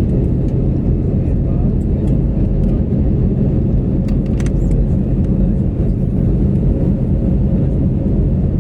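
Steady low rumble of an airliner's engines heard inside the passenger cabin.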